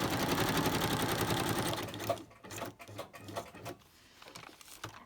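Sewing machine stitching around a glued paper journal piece at a fast, even rate, stopping about two seconds in; a few faint clicks follow.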